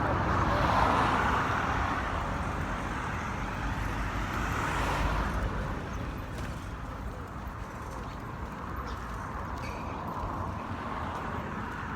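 Road traffic: vehicles passing by, swelling loudest about a second in and again around five seconds.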